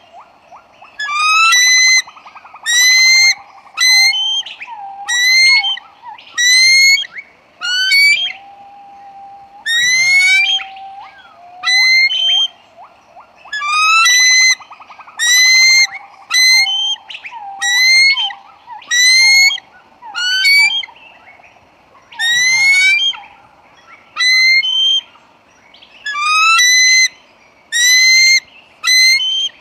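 A bird calling over and over: short, loud whistled notes that each rise in pitch, given in quick runs of several with brief pauses, over a lower, quieter whistle and trill.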